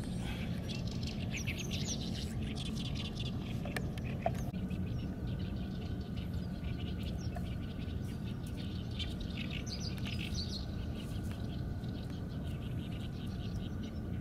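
Small birds chirping in quick twittering bursts, in two spells: soon after the start and again about two-thirds of the way through, over a steady low rumble.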